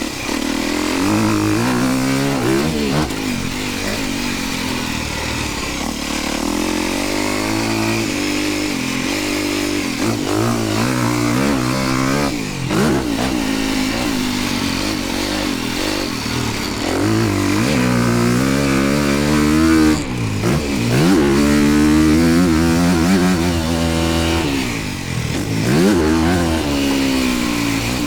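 Dirt bike engine being ridden around a motocross track, its pitch climbing and dropping off again and again.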